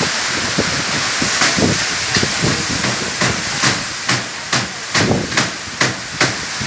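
Storm wind and rough river waves making a loud, steady hiss. From about three seconds in comes a run of sharp knocks, roughly two a second.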